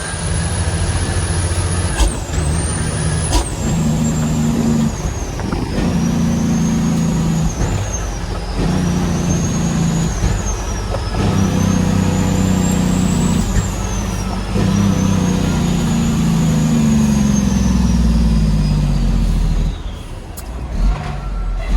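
Heavy diesel truck engine pulling up through the gears, its pitch climbing and then dropping at each of about six shifts, with a high turbo whistle rising and falling along with it.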